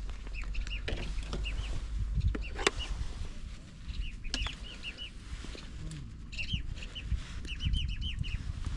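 Birds chirping: short, high, quickly repeated calls in runs, with a few sharp clicks and a low rumble underneath.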